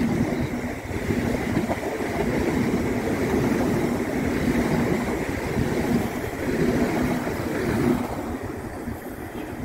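A green-and-yellow electric multiple-unit passenger train passes at speed on the near track, a steady close rumble of wheels on rail. The rumble drops away about eight seconds in as the last carriage goes by.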